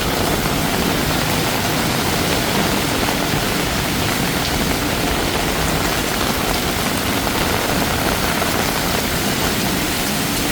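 Heavy tropical rain falling in a steady, dense hiss.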